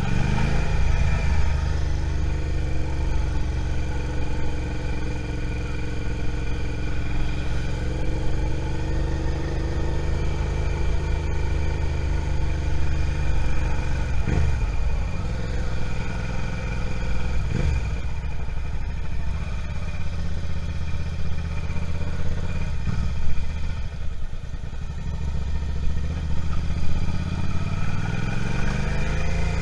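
Suzuki SV650's V-twin engine running under way, rising in pitch as it accelerates about a second in and again near the end, and easing off in the middle.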